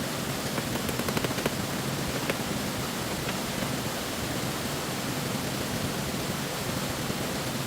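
Steady rush of flowing stream water, with a few light clicks between about one and two and a half seconds in.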